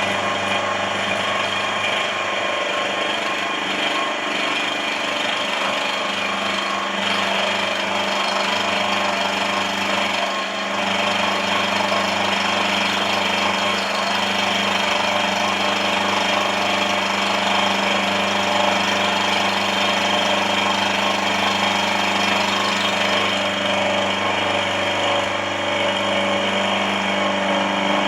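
Benchtop mill-drill running under power, a steady motor hum with a loud mechanical whir and hiss from the spindle and gearing, holding an even level throughout.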